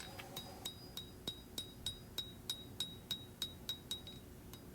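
Steady hand-hammer blows on hot 1095 high-carbon steel over an anvil, about three a second, each with a short high metallic ring, as the blade's edge is drawn down.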